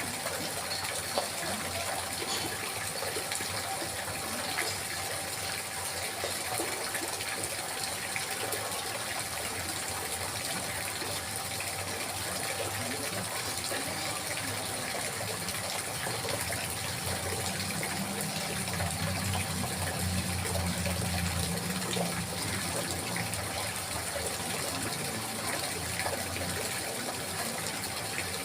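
Water trickling and splashing steadily. A low rumble swells up about halfway through and fades again a few seconds later.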